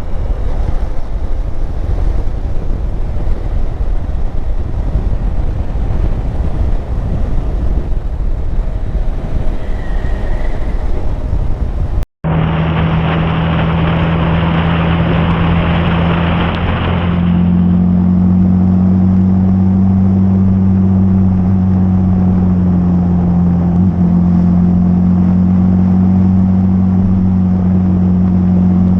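Hero Xpulse 200 motorcycle riding on the road. First comes rushing wind and road noise, then, after a sudden cut, the single-cylinder engine drones steadily under way. The wind noise dies down about five seconds after the cut, and at the same moment the engine note steps up slightly.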